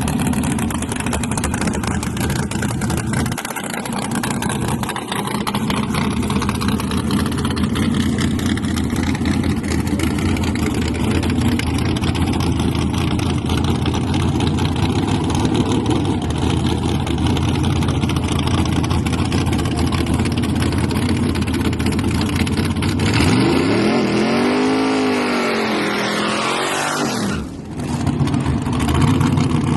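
Drag-racing S10 pickup engine running hard and steady at high revs. Near the end its pitch swings up and down, the sound drops out for a moment and then comes back.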